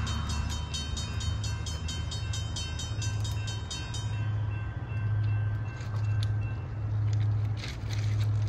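Low rumble of the approaching CSX P001 train in the distance, swelling and fading about once a second. Over it, a rapid high ringing of about four strokes a second stops about four seconds in.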